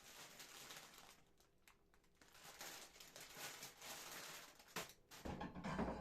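Rustling, crinkling handling noises with a few sharp clicks, then a heavier knock and bump near the end.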